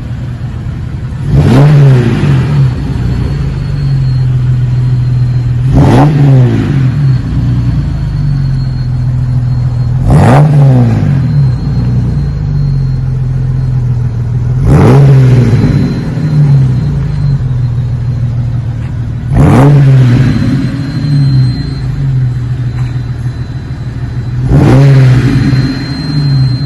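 2002 Jeep Wrangler's 4.0-litre inline-six exhaust note through a Magnaflow straight-through cat-back muffler, idling and blipped six times. Each rev rises sharply and falls back to idle, about every four to five seconds.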